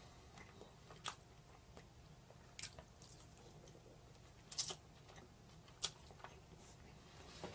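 Faint chewing of roast chicken, with a handful of short, scattered mouth clicks.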